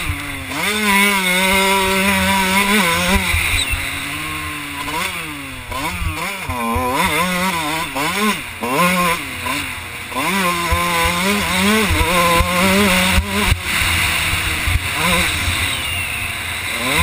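2001 Kawasaki KX125's two-stroke single-cylinder engine revving up and dropping back again and again as the rider works the throttle and gears around the track. Heard from a helmet camera, with wind rumble on the microphone.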